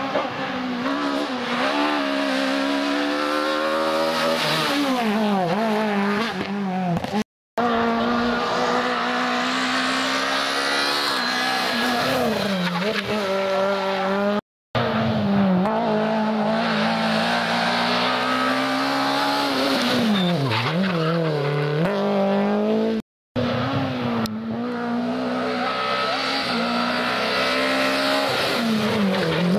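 Rally cars driven hard on a stage, engines revving with the pitch climbing and dropping through gear changes and braking, with some tyre noise. The sound cuts out briefly three times where one car's clip gives way to the next.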